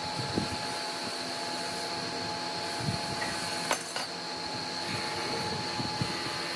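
A machine running steadily with a constant high whine, with scattered low knocks and one sharp click a little past the middle.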